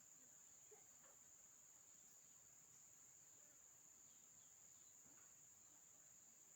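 Faint, steady high-pitched insect trilling, in near silence.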